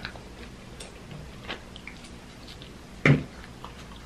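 Close-miked chewing of a mouthful of pizza: soft wet mouth clicks and smacks, with one louder, sudden mouth sound about three seconds in.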